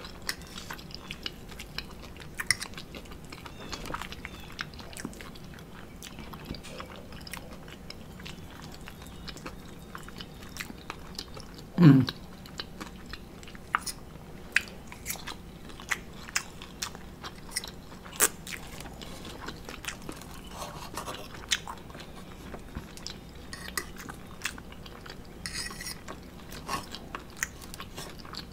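A person chewing a bite of omelet, with many small wet mouth clicks and the occasional clink and scrape of a fork on a plate. About twelve seconds in comes one short, louder low vocal sound that falls in pitch.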